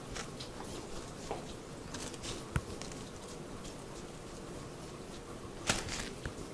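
Steady rain with scattered pattering drops and a few sharper taps, the loudest near the end.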